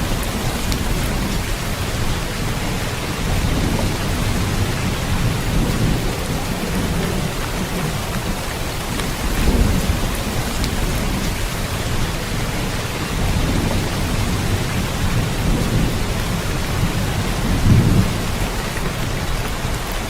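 Steady heavy rain hissing, with low rolls of thunder rumbling underneath; the rumble swells about halfway through and again near the end.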